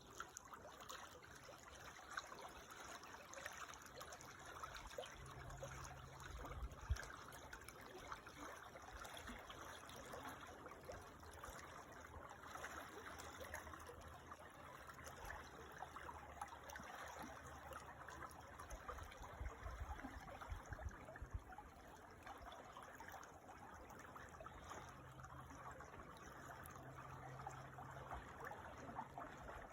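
A creek trickling steadily, a faint, even babble of running water.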